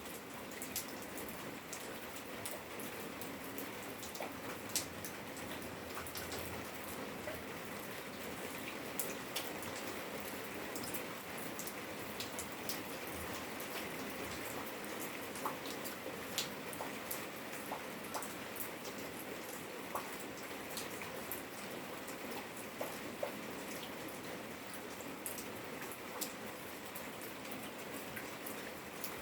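Steady rain falling, with frequent sharp taps of individual raindrops scattered through it.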